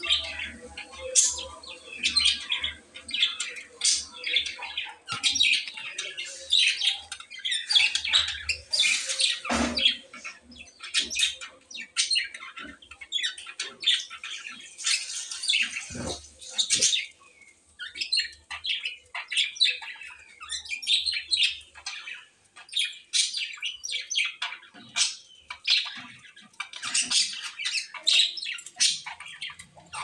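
Birds chirping and squawking without a break, many short high calls overlapping one another. Two dull thumps cut in, about ten and sixteen seconds in.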